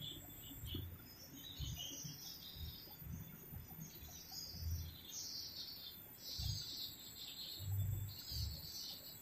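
Wild birds chirping and calling over and over, in short high twittering phrases. Dull low thumps come in between.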